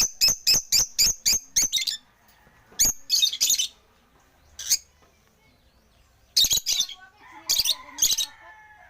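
African lovebirds chirping: a quick run of sharp, high-pitched calls, about five a second for the first two seconds, then shorter bursts of calls with pauses between them.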